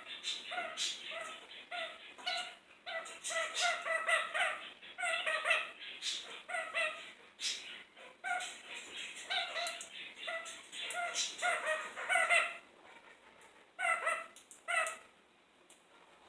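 Kakariki parakeet giving rapid runs of short, pitched chattering calls, several a second, in bouts that stop about fifteen seconds in.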